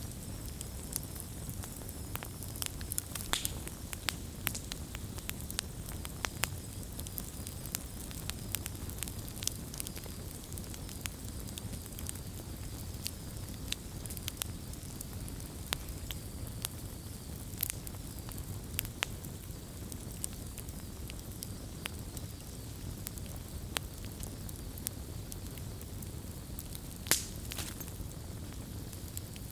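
Campfire burning: a steady low rumble of flames with irregular wood crackles and pops, one louder pop near the end.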